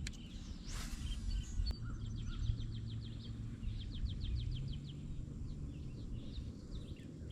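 A songbird singing: two runs of quick repeated chirps, each lasting about a second, over a low steady outdoor rumble.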